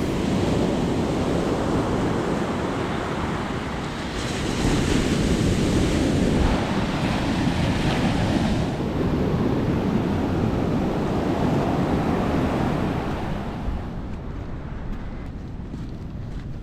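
Ocean surf washing onto the beach, with wind buffeting the microphone; the wash swells louder a few seconds in and grows quieter and duller near the end.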